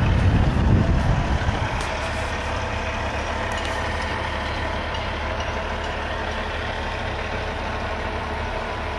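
A heavy truck's diesel engine idling, a steady low rumble that swells louder for the first second and a half and then settles.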